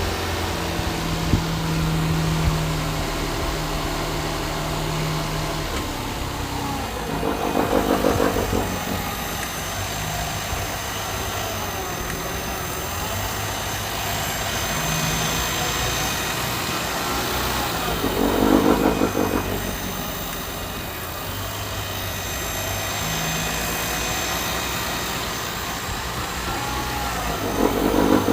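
8th-generation Nissan Maxima's 3.5-litre V6 running at idle, with an unexplained buzzing noise that comes back about every ten seconds, three times, each lasting a second or so.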